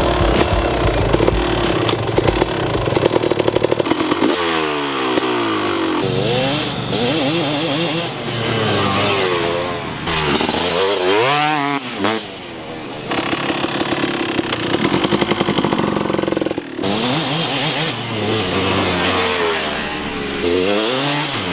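Two-stroke engine of a 2003 Kawasaki KX250 dirt bike, running rough and steady at first, then revved up and down again and again, its pitch rising and falling with each blip of the throttle.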